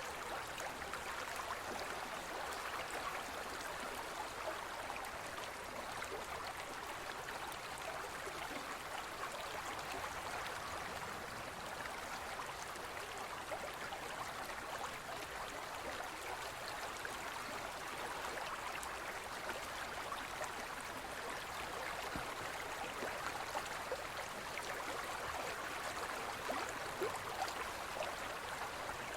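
Small forest river flowing over stones: a steady rush and babble of water, with small splashes scattered through it.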